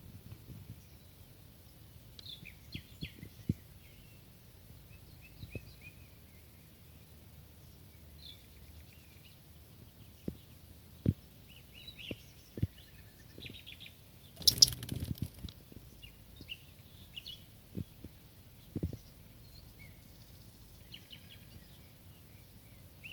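Birds chirping in short, scattered high calls, with a few sharp knocks and one loud rustling burst lasting about a second midway.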